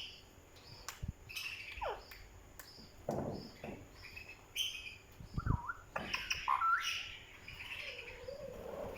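Pet parrot chirping and whistling, with sliding whistles that fall and rise in pitch, the loudest about two-thirds of the way through, over a run of short high chirps. There are a couple of soft low thumps.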